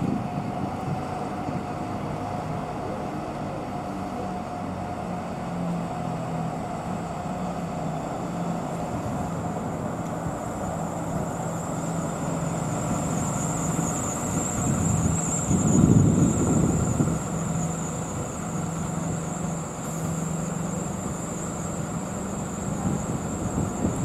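A public-transport vehicle running steadily, with a low hum and a thin high-pitched whine that grows stronger about halfway through. A louder rumble swells briefly about sixteen seconds in.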